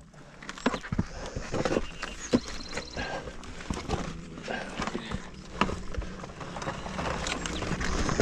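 Footsteps scuffing over rough trail ground, with scattered knocks and clatter as a dirt bike is manoeuvred by hand.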